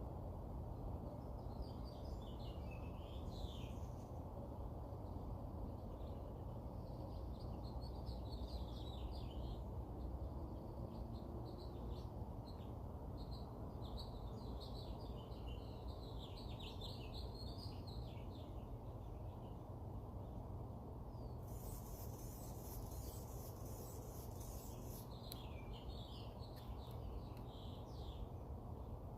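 Songbirds singing in repeated short twittering phrases over a steady low background rumble. About three-quarters of the way through, a high hissing buzz joins for several seconds.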